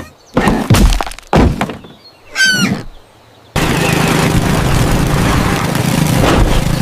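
Cartoon sound effects: two sharp knocks and a short squeaky sound, then after a brief gap a tractor engine starts and runs steadily.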